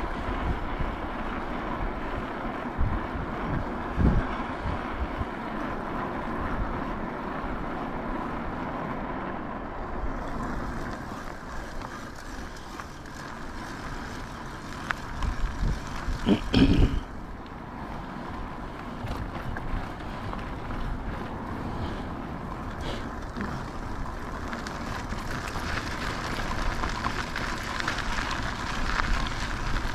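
Wind buffeting the action camera's microphone over steady tyre and road rumble from a moving e-bike, with a few thumps, the loudest about halfway through.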